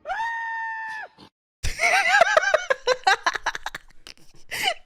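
A single flat, held high tone lasting about a second, then after a short pause a high-pitched burst of rapid laughing that runs on to the end.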